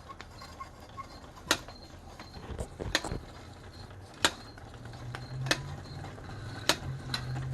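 Weeden toy steam engine running slowly and labouring, with a sharp click about every second and a half, coming a little faster toward the end. A low steady hum comes in about five seconds in.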